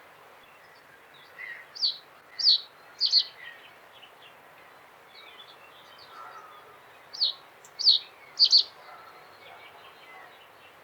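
Common reed bunting singing: two short song phrases, each of three loud, sharp, downward-sweeping high notes with softer twittering notes around them.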